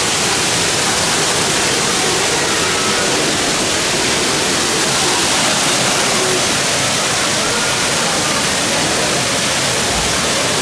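Steady rushing of falling water, even and unbroken, with faint voices underneath.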